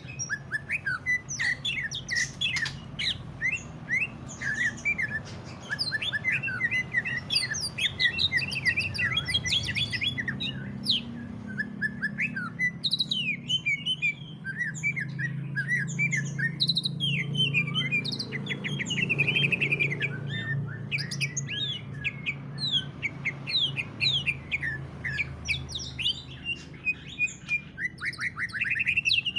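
Green leafbird (cucak ijo) singing fast and without pause: a dense run of sharp chirps, quick whistles and trills in the rapid 'ngentrok' style used to provoke other leafbirds into song. A faint low hum sits under the song in the middle stretch.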